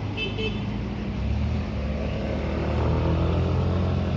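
Truck engine labouring on a steep climb. Its low drone grows louder about a second in and rises slowly in pitch as it revs under load.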